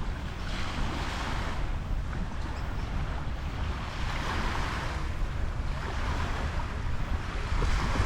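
Wind buffeting the microphone with a constant low rumble, and small bay waves washing in, their hiss swelling about three times.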